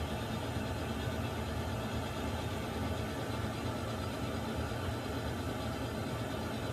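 Water heater running with a steady, unchanging low hum and hiss.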